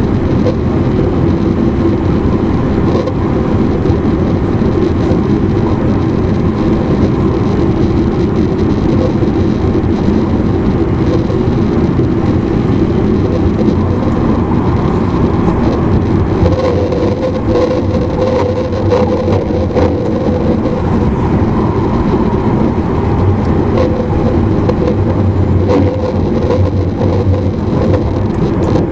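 Running noise inside an E259 series Narita Express motor car: a steady rumble of wheels on the rails. A humming tone from the traction equipment strengthens from about halfway through.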